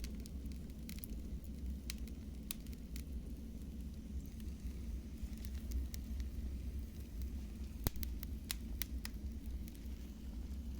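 Fire in a fireplace crackling, with irregular sharp pops over a steady low rumble; the loudest pop comes about eight seconds in.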